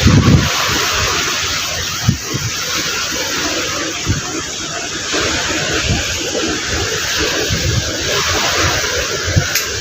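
Wind buffeting the microphone in irregular low gusts over a steady rushing hiss of sea and ship noise aboard a passenger ship under way.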